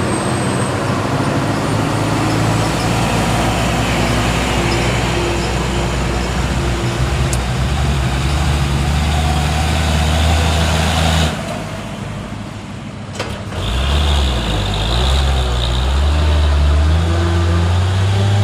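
Truck engine running hard under load on a steep climb, loud with a heavy low drone. About eleven seconds in the sound drops away sharply for roughly two seconds, then the engine comes back at a different pitch.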